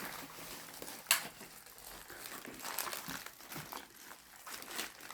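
Paper fast-food packaging crinkling and rustling as it is handled and opened, with irregular crackles and one sharp crack about a second in.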